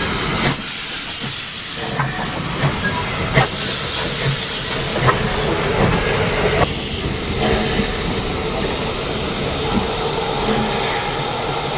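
Steam locomotive hissing steam in several long, loud surges, each lasting a second or more, over the low rumble of the train.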